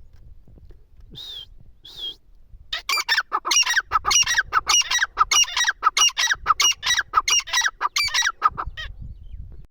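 Teetar (francolin) calling: two short high notes about a second in, then a loud, rapid run of repeated calls, about three a second, for some six seconds.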